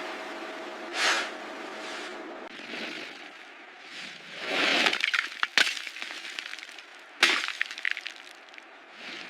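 Sharp cracking sounds: two loud cracks, each followed by smaller crackles, over swells of rushing noise.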